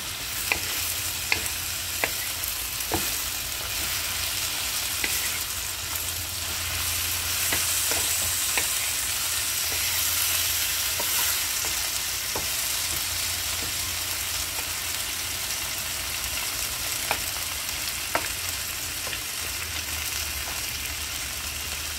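Okra and tomatoes frying in oil in a non-stick pan, a steady sizzle that swells a little midway, while a wooden spatula stirs them, with scattered light taps of the spatula against the pan.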